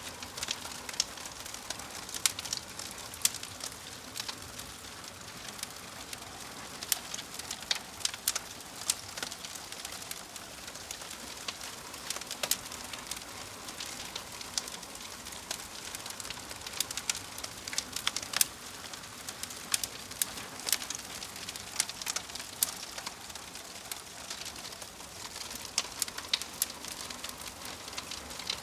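Wood fire of burning logs in a fireplace crackling, with a steady hiss under irregular sharp pops and snaps, several a second.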